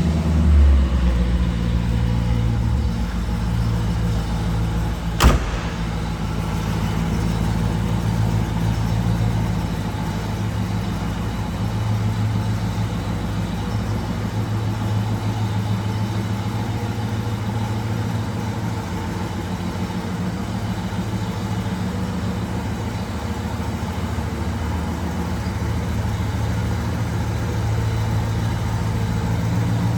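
1968 Pontiac Firebird engine idling steadily just after a cold start. A single sharp click sounds about five seconds in.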